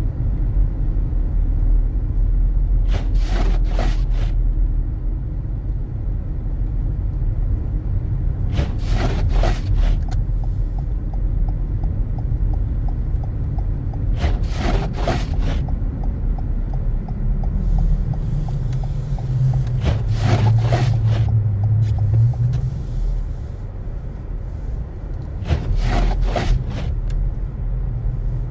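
A car driving through snow: a steady low rumble of engine and tyres. Every five to six seconds comes a short scraping sweep, typical of windshield wipers clearing snow. The engine note rises briefly a little past halfway.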